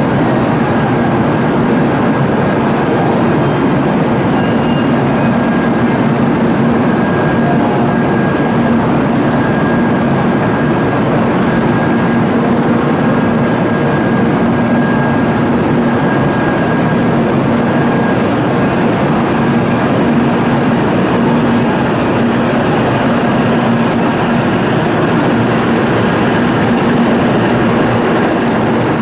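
Sanyo Shinkansen bullet train running, a steady loud rumble with a constant electric hum.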